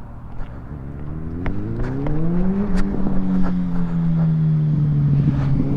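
A motorcycle engine approaching: it revs up about a second in, then holds a steady, slightly falling note while growing steadily louder as it comes closer. A few small sharp clicks sound over it.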